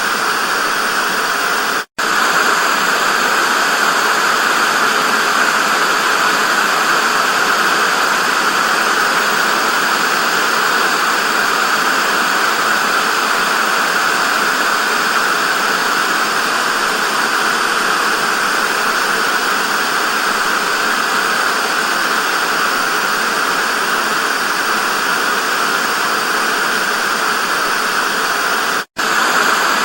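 Television static: a steady, loud hiss that cuts out for an instant twice, about two seconds in and again near the end.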